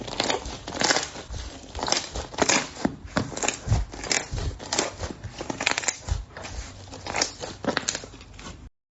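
Slime being handled, making a close-up stream of irregular crackles and pops that cuts off suddenly near the end.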